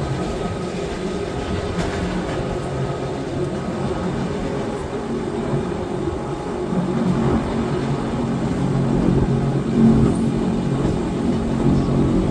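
Electric rack-railway train of the Wengernalpbahn running, a steady rumble with a low motor hum that grows louder in the second half.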